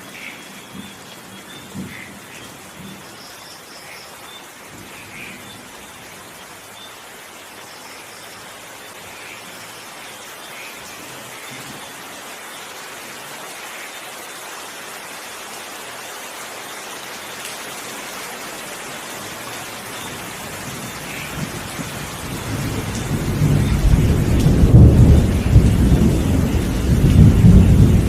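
Steady rain falling, with a long roll of thunder that builds in the last third and rumbles loudest near the end.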